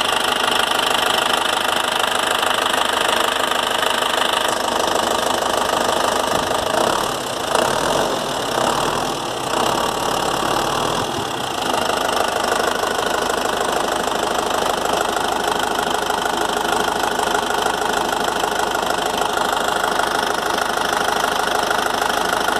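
Toyota 14B 3.7-litre four-cylinder diesel engine running steadily with its typical diesel clatter. Its sound wavers and dips briefly in the middle, then settles again.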